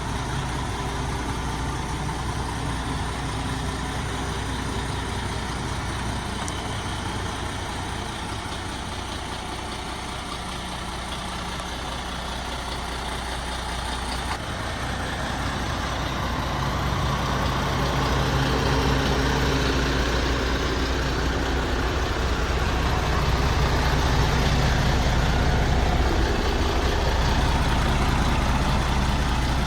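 A MAN TGX 26.480 tractor unit's six-cylinder diesel engine idling steadily, becoming louder about halfway through.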